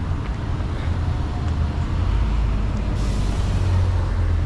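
Road traffic: a steady low engine rumble of passing vehicles, with a short hiss about three seconds in.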